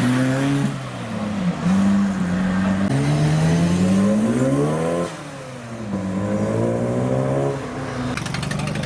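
Car engine accelerating away, its pitch rising, dropping sharply at a gear change about five seconds in, then rising again. A fast crackle joins it near the end.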